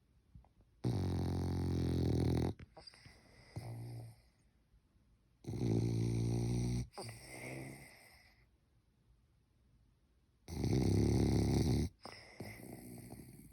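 French bulldog snoring in its sleep, a snore typical of the breed's short, flat-faced airway. There are three loud snores about five seconds apart, each about a second and a half long and followed by a quieter snore on the next breath.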